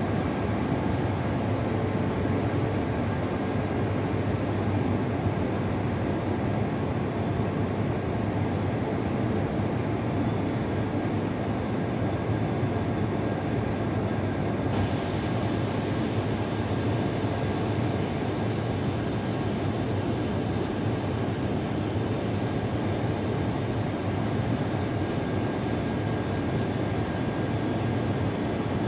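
Steady whirring hum of an E5 series Shinkansen train close by at a station platform, with no rise or fall in loudness. A brighter hiss sets in abruptly about halfway through.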